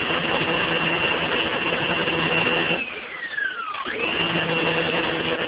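Small 1500 PSI electric pressure washer running steadily with a hum and a high whine; about three seconds in the motor cuts out and its whine winds down in pitch, then it starts again a second later and runs on.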